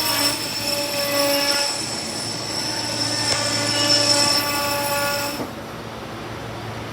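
SEPTA Silverliner V electric train moving through the station, with a high steady squeal and several whining tones that stop about five and a half seconds in, leaving a quieter rumble and hiss.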